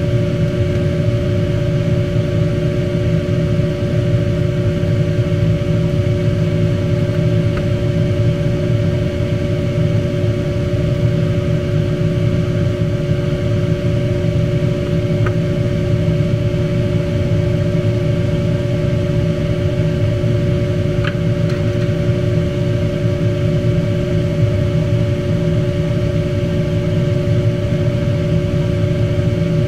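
Steady machine hum with a few constant tones over a low drone, unchanging throughout, with a few faint ticks.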